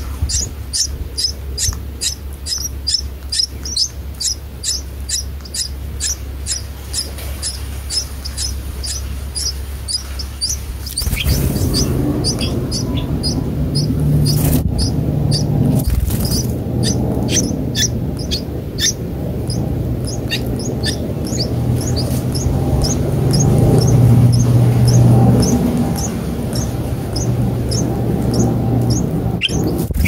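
Red-whiskered bulbul nestlings begging for food, a rapid run of short, high-pitched chirps at about three a second. About eleven seconds in, a low, steady hum joins the chirps.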